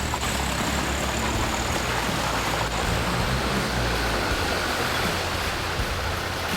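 A Land Rover Discovery 2's engine running low and steady as it creeps down a muddy off-road track, under a broad hiss of wind and outdoor noise.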